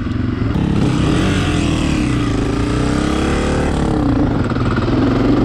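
Dirt bike engine running while riding on a trail. The revs rise and fall as the throttle is worked.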